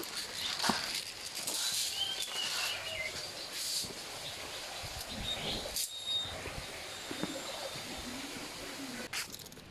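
A few short, high bird chirps over a steady outdoor hiss, with scattered clicks and a sharp knock near the end.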